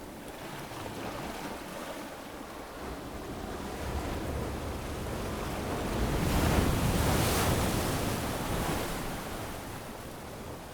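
Ocean waves on a sandy beach: a wave builds about halfway through, breaks loudest around two-thirds of the way in, then washes up and fades.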